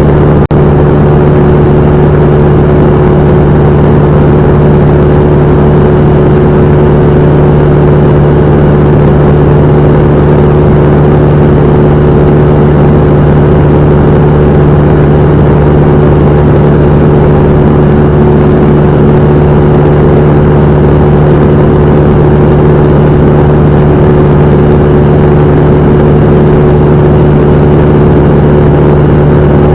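Cessna 172M's four-cylinder Lycoming engine and propeller running steadily at a constant, very loud drone. There is a brief click about half a second in.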